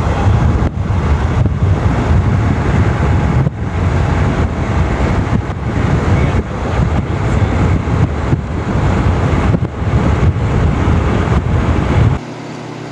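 Strong, gusty wind buffeting the camcorder microphone, rising and falling in gusts. About twelve seconds in it cuts off suddenly, leaving a quieter steady hum.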